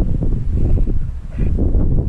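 Wind buffeting the microphone: a loud, irregular deep rumble that rises and falls without any steady tone.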